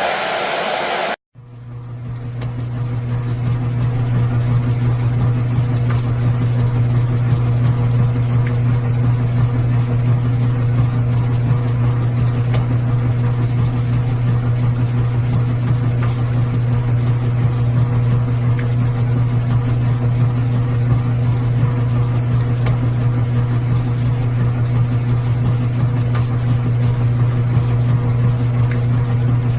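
Washing machine running with a steady, low motor hum. A brighter, hissier noise cuts off about a second in, and after a brief gap the hum fades in over the next couple of seconds.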